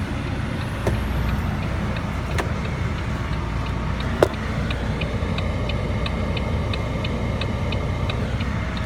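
Volvo FH13 truck's 12.8-litre inline-six diesel idling steadily, with a light regular ticking at about three a second over it and a few sharp clicks, the loudest about four seconds in.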